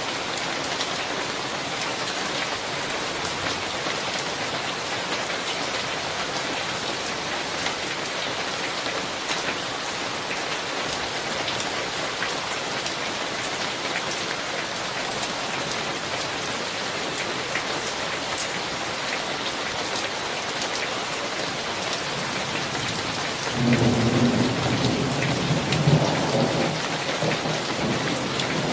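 Steady heavy summer rain falling on surfaces, with a roll of thunder rumbling in near the end and lasting several seconds.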